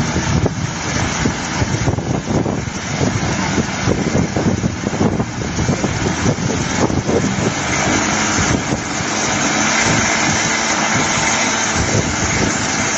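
An engine running, with a rough, uneven low pulsing. About eight and a half seconds in it becomes a steadier, louder rush.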